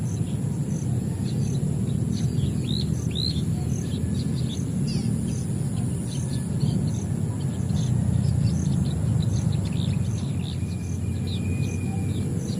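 Small birds chirping, many short quick calls, over a steady high insect drone with a regular high pip about twice a second. A low rumble runs underneath.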